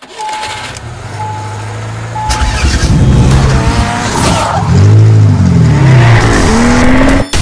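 Race-car sound effect: three short beeps about a second apart, then a car engine revving up and down in pitch, cutting off abruptly near the end.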